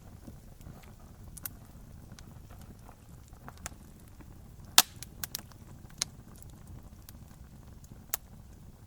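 Campfire crackling: scattered sharp pops and snaps from burning wood, the loudest about five seconds in with a quick cluster just after, over a steady low rumble.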